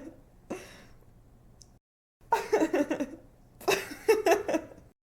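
A young woman laughing in two bursts of quick pulses, one about two seconds in and a longer one about three and a half seconds in, stopping abruptly near the end.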